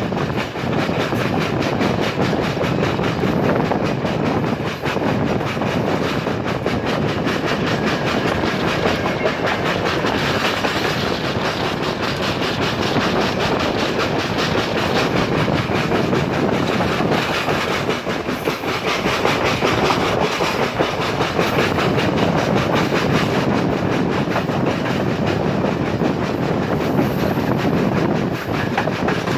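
Express passenger train running at speed, its wheels clicking steadily over the rail joints.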